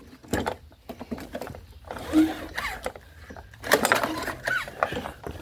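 Recoil starter of a PowerSmart 170cc mower engine pulled several times, the engine cranking over in short bursts without firing. The engine won't start, and no spark shows while it cranks.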